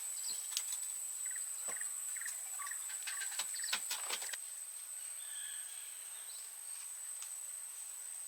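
A steady high insect drone, with scattered sharp clicks and knocks that bunch together about three to four seconds in, and a few short chirps.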